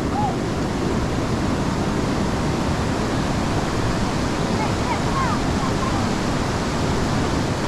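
Steady rush of a fast-flowing, storm-swollen river in flood, a dense unbroken roar.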